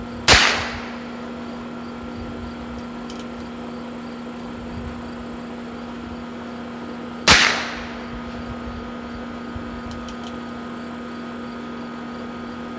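Two shots from a Heritage Rough Rider .22 rimfire single-action revolver, about seven seconds apart, each a sharp crack with a short echo.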